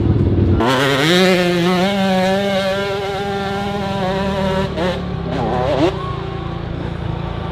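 Dirt bike engine revving hard, rising in pitch about half a second in and then held at high revs for about four seconds before backing off. A voice is heard briefly near the end.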